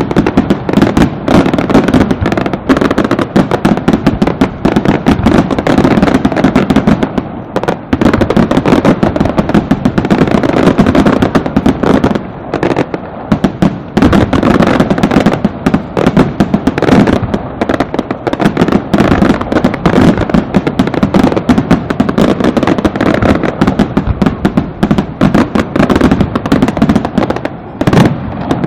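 Fireworks display (castillo) going off in a dense, continuous barrage of rapid bangs and crackling, with a few brief lulls.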